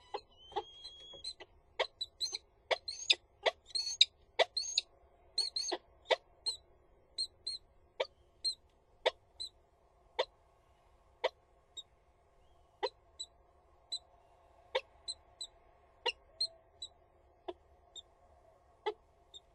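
Peregrine falcons giving a long series of short, sharp 'iee' calls, about two a second at first, then slowing to roughly one a second.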